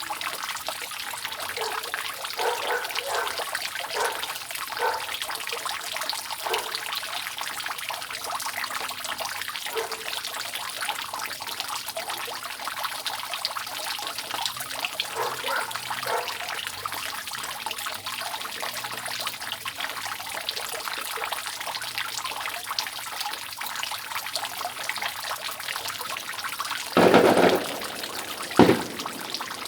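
Rainwater dripping and trickling from a roof: a steady patter of drops over a running trickle. Near the end come two louder bursts, the first about a second long, the second brief.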